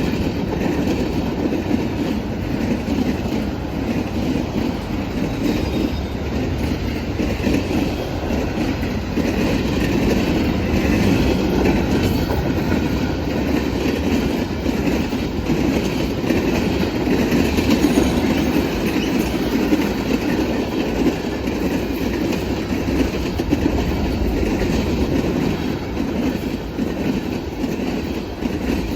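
Freight cars of a Norfolk Southern manifest train rolling past at speed, a steady rumble of wheels on rail with clickety-clack and some wheel squeal.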